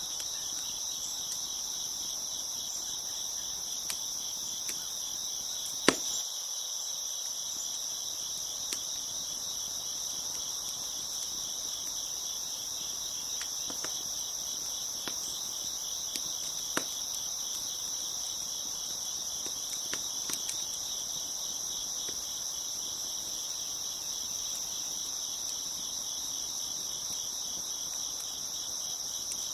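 Steady chorus of crickets chirping, with a few sharp pops from a crackling wood fire, the loudest about six seconds in.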